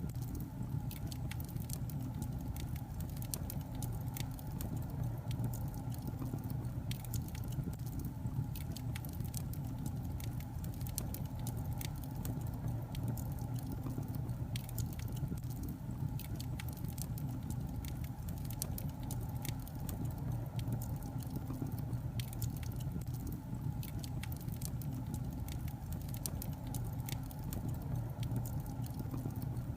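Wood logs burning in a fireplace: a steady low rumble of the fire with frequent, irregular sharp crackles and pops throughout.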